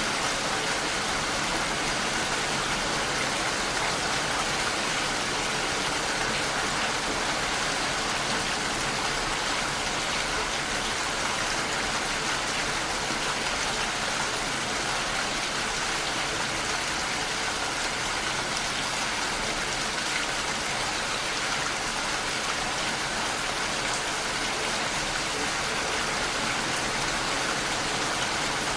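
Steady rain falling against a window pane: an even, unbroken hiss of many drops that does not change in strength.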